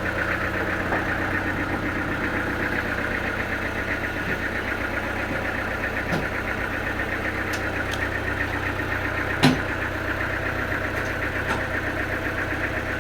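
A sawmill's engine running steadily at an even pace, with one sharp knock about nine and a half seconds in.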